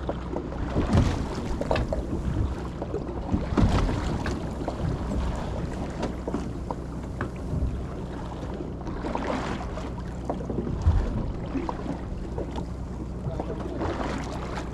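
Boat at sea: wind gusts buffeting the microphone and water noise over a steady low hum, swelling in several louder surges.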